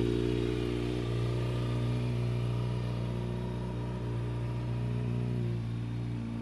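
2011 Kawasaki Ninja ZX-6R's inline-four idling steadily through an Akrapovic mid-pipe and slip-on exhaust, with a deep, throaty note.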